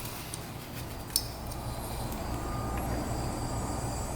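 A steady low mechanical hum that starts about a second in, just after a short click.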